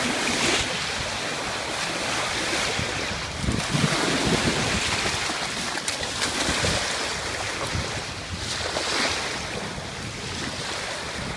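Ocean surf breaking and washing up a beach, with strong wind gusting across the microphone; the gusts are strongest about four seconds in.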